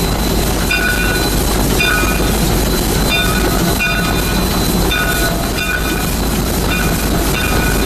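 Narrow gauge steam train rolling slowly with a steady rumble and clatter. A bright ringing note repeats about once or twice a second over it, the locomotive's bell being rung as the train moves off.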